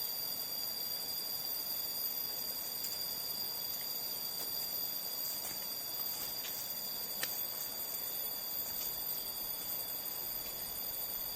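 Steady chorus of insects: several high, held tones layered together over a faint even hiss, with a few light clicks about six and seven seconds in.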